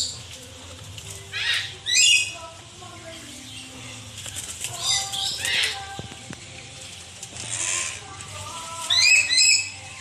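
Birds in a walk-through aviary calling: loud, harsh calls and screeches every couple of seconds, with two close together near the end, over a steady low background murmur.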